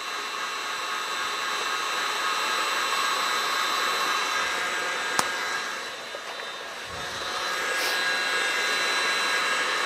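Electric mixer running at high speed, whipping mashed potatoes: a steady motor whir with a high whine. It eases off briefly about six to seven seconds in, and there is one sharp click about five seconds in.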